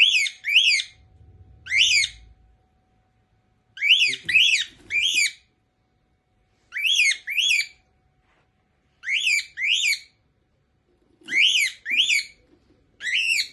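Cockatiel whistling: about thirteen short, sliding whistle notes, mostly in pairs or threes, with pauses of a second or two between the groups.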